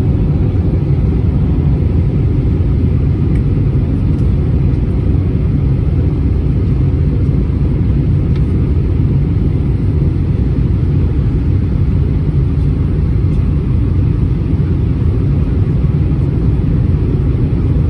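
Steady low rumble inside the cabin of an Airbus A320-231 in flight: engine and airflow noise from its IAE V2500 engines.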